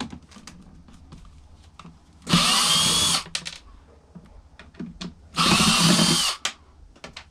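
Cordless screw gun (drill/driver) running in two bursts of about a second each, its motor pitch winding up and down, as it backs screws out of a karaoke machine's casing; light clicks and handling sounds between the bursts.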